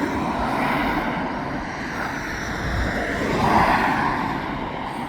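Road traffic: a steady rush of passing vehicles, with one car swelling loudest about three and a half seconds in and then fading.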